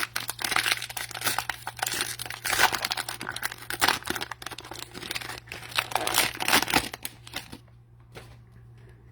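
A trading card pack's wrapper being torn open and crinkled by hand, a dense irregular crackling that stops about three-quarters of the way through.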